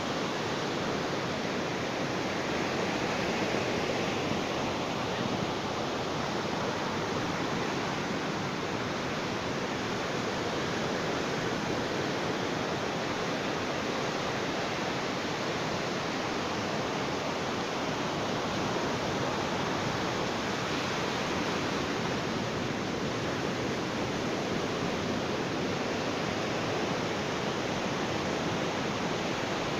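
Ocean surf washing on a beach: a steady, unbroken rush of waves with only slight slow swells.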